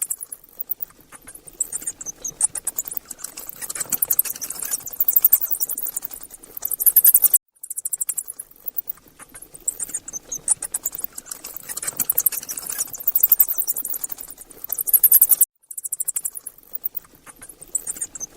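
An insect's high, rapid pulsing buzz that swells and fades over several seconds, broken by two short silences about eight seconds apart.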